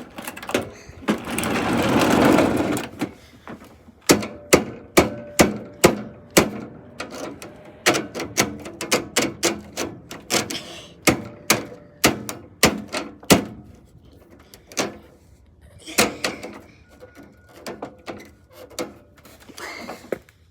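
A dehumidifier being struck over and over with a hand tool, about two sharp blows a second, with a faint ringing from the casing; the blows thin out to a few scattered knocks later on. A loud, noisy burst comes about two seconds in, before the blows start.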